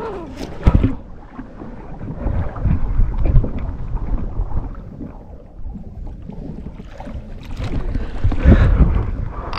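Water sloshing against a kayak hull in uneven low rumbling surges, with a sharp knock about half a second in.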